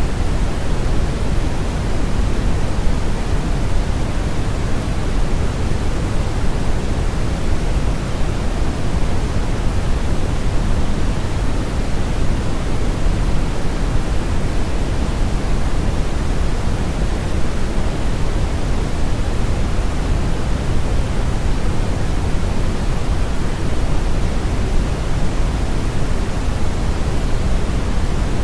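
Steady brown noise: a continuous deep hiss, strongest in the bass and falling off toward the treble, like a river current or strong wind, with no change throughout.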